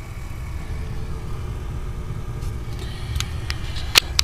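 Steady low mechanical rumble, with a few sharp clicks in the last second or so.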